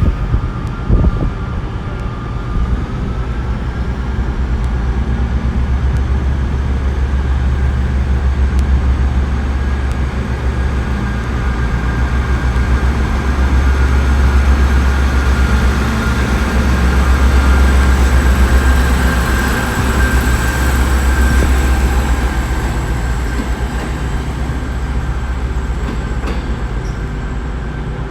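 Class 158 diesel multiple unit departing, its underfloor diesel engines running under power. A deep rumble swells to its loudest in the middle and then eases, with a steady whine above it.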